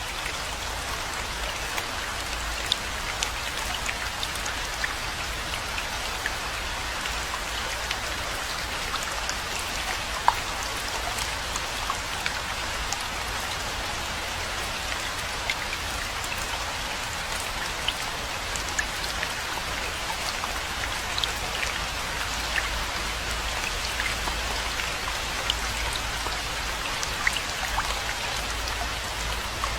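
Steady rainfall: an even hiss of rain with many individual drops tapping close by, a few of them louder.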